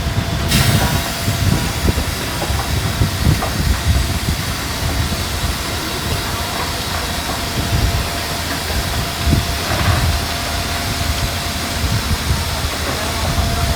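Heavy diesel earthmoving machinery running: a steady low engine rumble under a broad hiss, with a faint steady whine over the second half.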